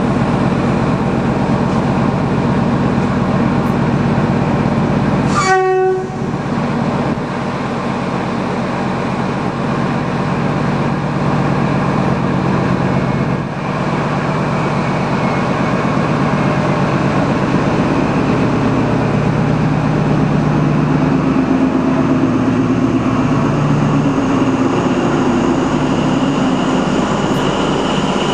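Diesel engine of an XPT passenger train running steadily close by, with one short horn blast about five and a half seconds in.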